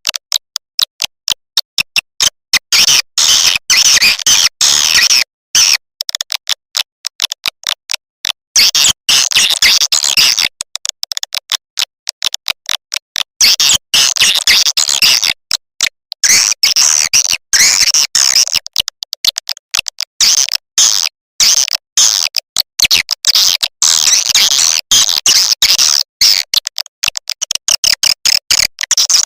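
Swiftlet lure call recording, the kind played to draw swiftlets into a nesting house: rapid trains of sharp clicks mixed with high, chirping twitters, coming in choppy bursts with many brief silent gaps between them.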